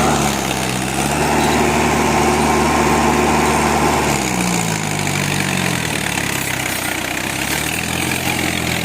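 Tractor engine running, revving up near the start and holding its speed, then dropping back to a lower, idling speed about halfway through.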